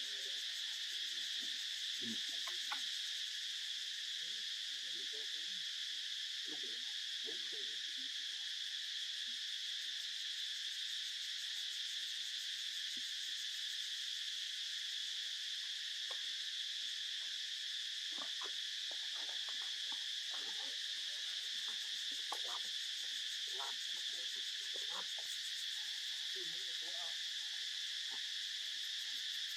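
Steady, high-pitched insect chorus that drones on without a break, with faint scattered rustles and ticks beneath it, more of them in the second half.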